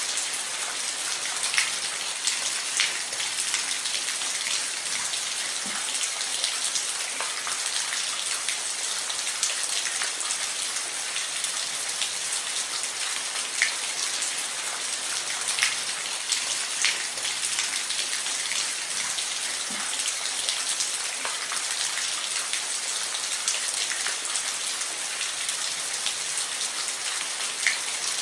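Steady rain falling on a roof, a continuous hiss with scattered louder individual drops ticking through it.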